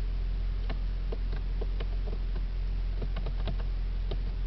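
The supercharged 6.2-litre V8 of a 2011 Cadillac CTS-V idling steadily, heard from inside the cabin, with scattered light clicks at irregular spacing.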